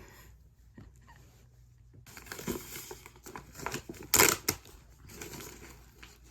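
Plastic packaging being handled and pulled off a vacuum-sealed beanbag chair, crinkling and tearing. Quiet for the first couple of seconds, then a run of rustles and crackles, the loudest about four seconds in.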